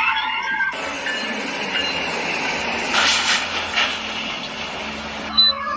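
Steady rushing noise of a vehicle in motion, with a couple of sharp clicks about three seconds in.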